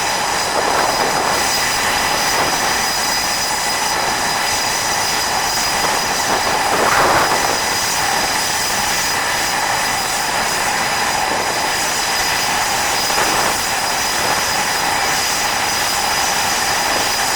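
Steady jet engine noise with a high turbine whine from the Blue Angels' F/A-18 Hornets running up their engines. It swells briefly about seven seconds in and masks the quieter V-22 Osprey tiltrotor flying its demonstration.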